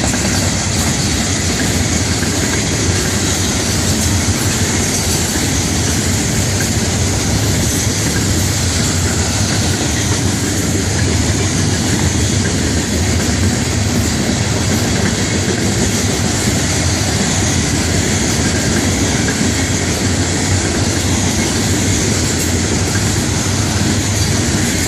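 Florida East Coast Railway freight train's intermodal cars rolling past, a steady rumble of wheels on the rails.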